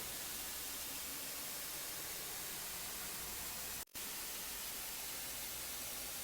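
Steady hiss of background noise with no other sound in it, broken by a brief dropout to silence about four seconds in.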